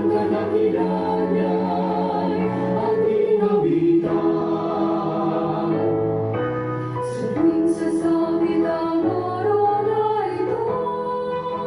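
A choir singing a Tagalog Christian praise song, holding long notes that change in steps.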